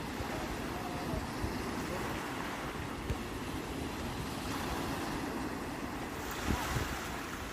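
Sea surf: waves washing in a steady rushing noise, with wind buffeting the microphone in uneven low gusts. A little after six seconds a wave breaks and hisses more brightly.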